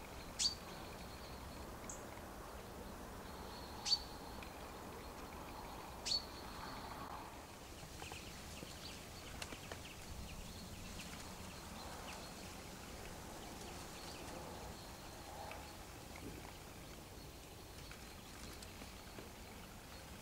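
Three short, sharp high-pitched bird calls about two seconds apart, over a faint outdoor background with scattered soft ticks and rustles in dry leaves and bracken, where fallow deer are feeding.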